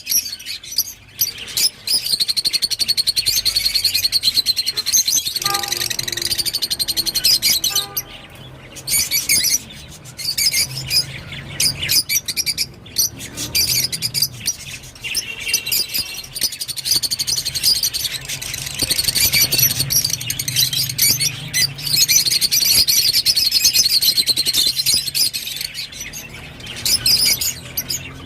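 Rosy-faced lovebird chattering: a dense, rapid run of high-pitched chirps and tweets, with a short break about eight seconds in.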